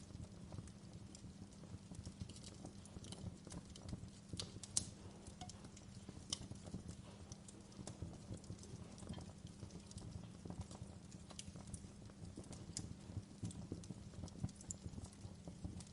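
Wood fire in a fireplace crackling, with irregular snaps and pops over a low steady rumble of the flames. The sharpest pop comes about five seconds in.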